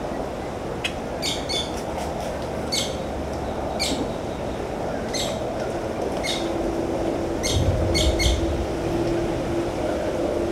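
Birds calling in short, sharp chirps, about ten scattered irregularly over a steady background din. A low steady hum comes in about six seconds in.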